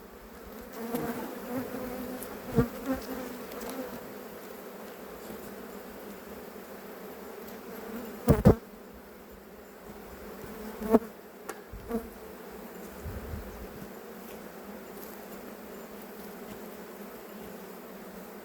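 Honey bees buzzing steadily around an open hive, with a few sharp knocks from working the hive, the loudest about eight seconds in.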